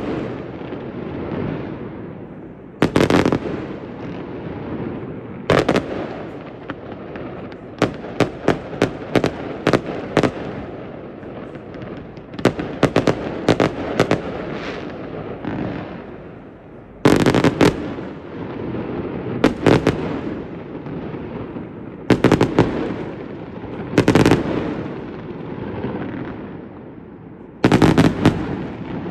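Fireworks display: repeated sharp bangs and crackling volleys every few seconds over a continuous rumble of bursts, with heavy clusters about 3, 17, 24 and 28 seconds in.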